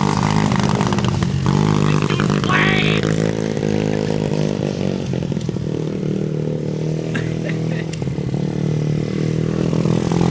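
A 90cc pit bike engine running steadily, its pitch rising a little about two seconds in.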